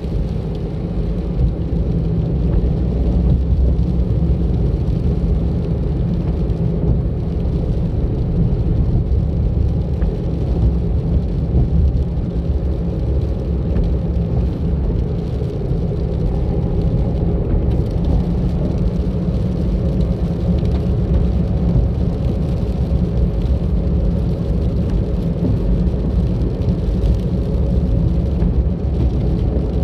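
A car being driven at steady speed, its engine and tyres on the road making a continuous low rumble with no distinct events.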